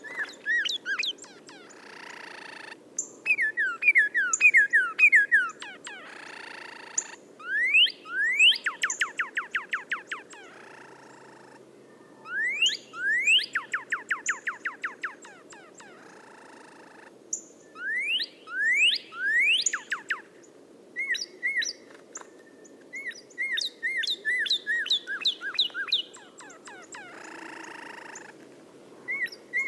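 Caged songbird of the kind kept in Indonesia as 'angrybird', singing loud phrases of rapid repeated notes: fast trills and series of sharp sweeping whistles, with short pauses between phrases. A few short harsh noises fall between the phrases.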